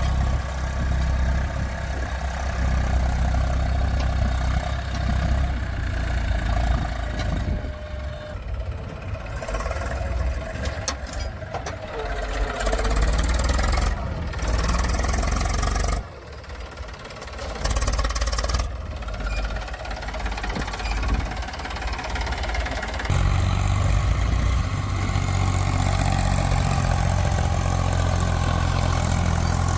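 Heavy diesel engine of a backhoe loader or tractor running, its sound changing and briefly breaking off a few times. It settles into a steadier low hum from about 23 seconds in.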